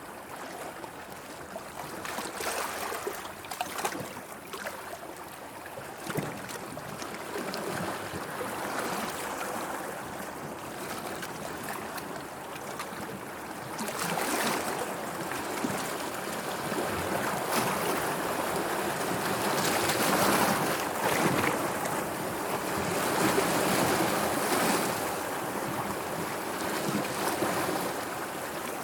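Sea waves washing and splashing, a steady rushing wash with small splashes, growing louder about halfway through.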